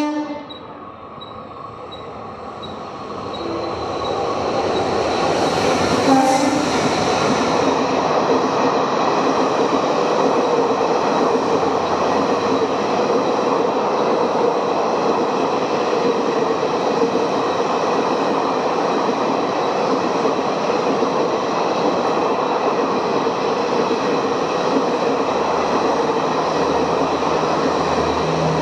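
Maharajas Express passing at speed behind two WDP-4 diesel locomotives. A short horn peak comes at the very start, then the rush of wheels on rail builds over the first few seconds and holds loud and steady.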